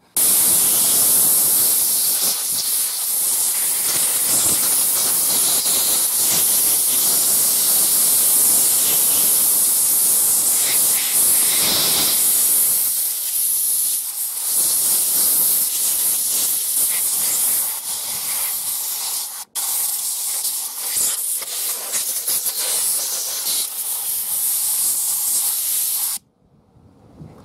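Compressed-air blow gun on a workshop airline blowing sawdust and oil gunk out of chainsaw parts: a loud, steady hiss that starts abruptly, breaks off for an instant about two-thirds through, and cuts off near the end.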